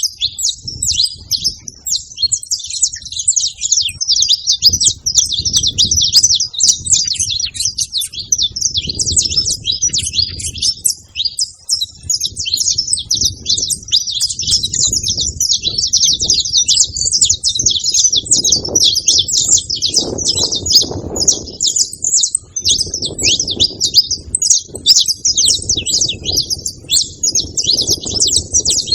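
A chorus of saffron finches singing, dense high chirping phrases overlapping without a break. A low rumble swells and fades underneath.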